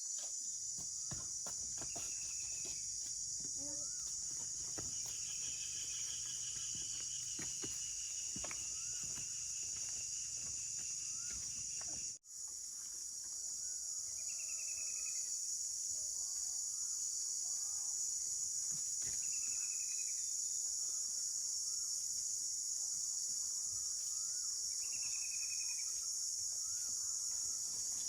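Outdoor rural ambience: a steady, high-pitched chorus of insects, with a bird giving repeated short calls. The sound drops out briefly about twelve seconds in.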